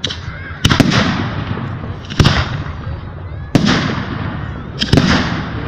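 Fireworks bursting overhead: four sharp bangs, the first and last each a quick double, about one every second and a half, each followed by a fading crackle and hiss.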